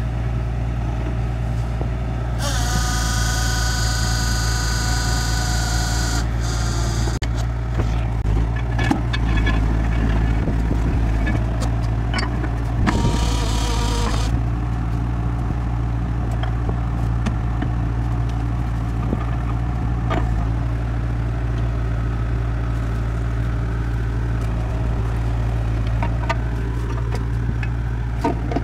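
Drilling-rig machinery with an engine running steadily. Air hisses loudly twice, for about four seconds starting two seconds in and again briefly around thirteen seconds. Scattered knocks and clanks are heard between them.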